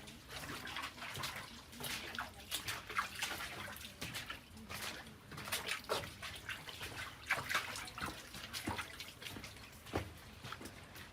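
Footsteps scuffing and crunching on a wet, rocky trail, irregular, a few steps a second, with water trickling and dripping alongside.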